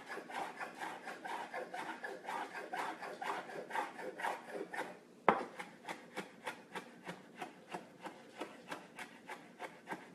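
Knife rough-chopping fresh dill on a cutting board: a steady run of quick chops, about three to four a second, with one louder knock about five seconds in.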